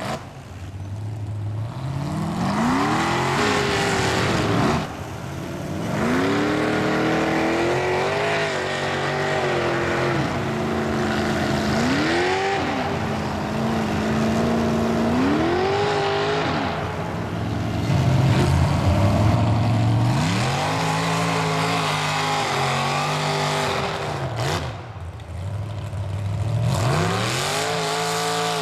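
Mud-bogging truck engine revving hard over and over, its pitch climbing and falling in about six surges as the throttle is worked through the mud pit.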